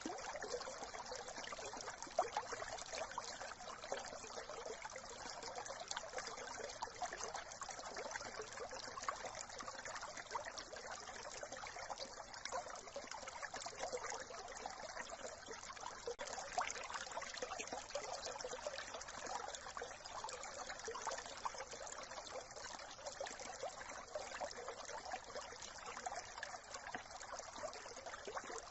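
Small brook babbling and trickling steadily over stones, an even splashing rush of running water with no change throughout.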